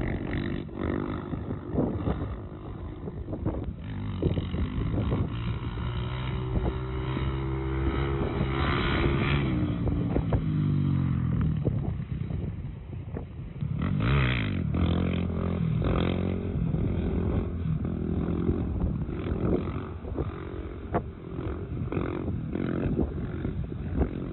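Quad bike (ATV) engine running and revving up and down, with scattered knocks and clatter.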